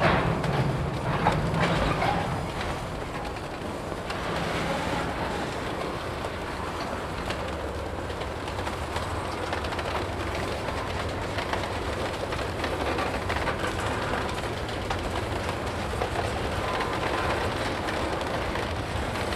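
Freight cars (covered hoppers and tank cars) rolling slowly past as the train is backed through the yard: a steady wheel-on-rail rumble with scattered clicks and knocks, louder in the first couple of seconds.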